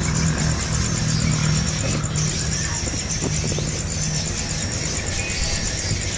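Outdoor ambience: a rapid, evenly pulsed high trill and a low steady hum that stops about four seconds in.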